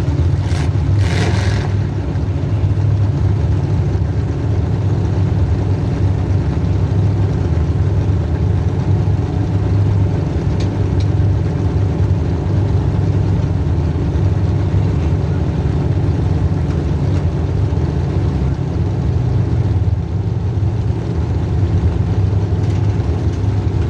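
Demolition derby car's small-block Chevy V8 running steadily, near a constant speed. About a second in there is a brief burst of hissing or scraping noise.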